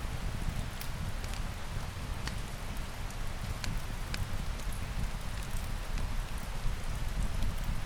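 Steady rain falling on a surface, with a low rumble beneath and scattered sharp ticks and crackles throughout.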